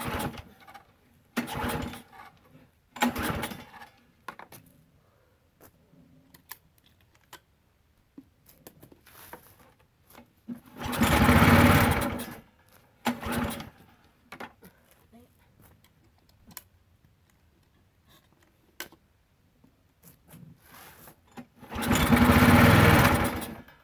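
Briggs & Stratton Quantum small engine on a pressure washer being pull-started over and over on choke. There are short bursts of cranking, and twice, about halfway and near the end, it fires for about two seconds before dying. It is struggling to start because of a freshly replaced carburetor that is short of fuel and needs priming.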